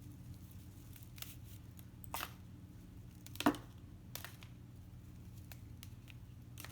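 A few scattered, short, crisp clicks and rustles of dry pine straw being handled and laid in place, the loudest about halfway through, over a faint steady hum.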